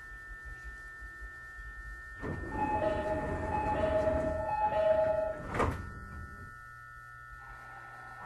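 Sliding passenger doors of a JR 209-series electric train carriage moving with a rush of air. The two-tone door chime repeats four times, and the doors shut with a sharp thud about five and a half seconds in.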